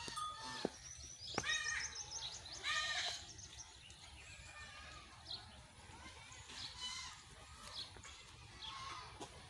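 Birds calling and chirping: a quick high trill and a few arched call notes about a second and a half in, then shorter scattered calls. A sharp click comes right at the start.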